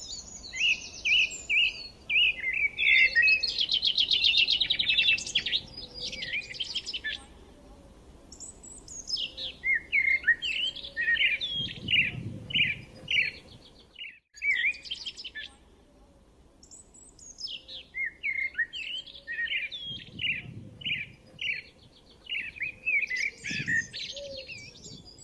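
Songbirds singing: a fast trill a few seconds in, then a phrase of quick repeated chirps, each note falling in pitch, sung twice with a short pause between.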